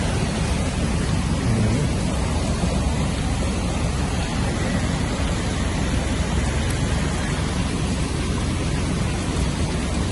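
Heavy rain and running water: a steady wash of noise with a deep rumble underneath.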